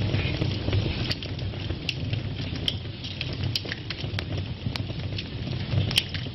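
Wood fire burning in a fireplace: a steady low rumble of flames with irregular sharp crackles and pops, two louder pops near the end.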